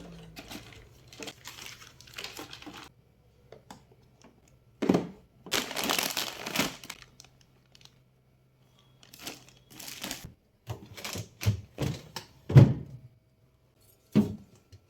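Plastic packaging crinkling as it is handled, in irregular spells, then several sharp knocks of items being set down near the end.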